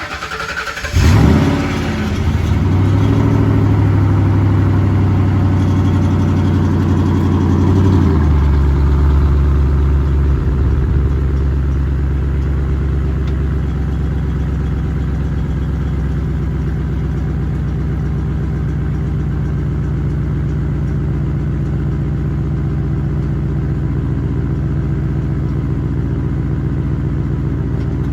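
2004 Mercury Marauder's 4.6-litre V8, with rear cats deleted, mufflers fitted backwards and no crossover pipe, catching with a loud flare and a couple of rev swings. It then holds a high idle, which drops to a lower steady idle about eight seconds in.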